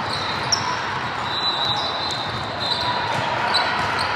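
Basketball game on a gym court: a ball bouncing, with brief sneaker squeaks and a steady murmur of crowd voices.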